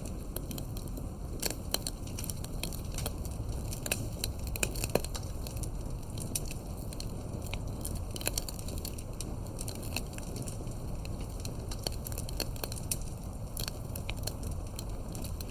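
Firewood burning in a campfire, crackling with many irregular sharp pops, a few of them louder, over a steady low rumble.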